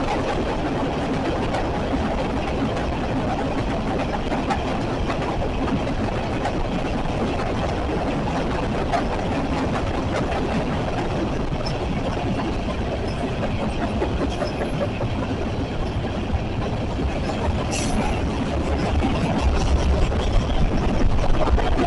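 CSX freight train passing, a steady rumble and clatter of rolling rail cars, with a heavier low rumble swelling near the end.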